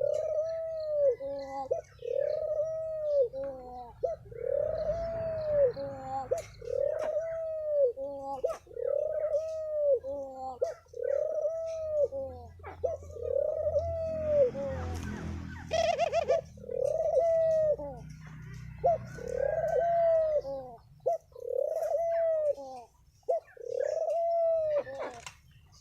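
Spotted dove cooing in the 'thổ pháp' style, a lure call for exciting other doves. Arched coos repeat steadily, roughly one a second. Around the middle comes a brief rustle.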